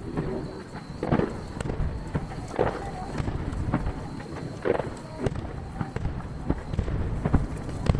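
Aerial fireworks shells bursting in a rapid, irregular series of bangs, each trailed by an echo, heard from a distance. The recording is played at triple speed, which packs the bursts close together.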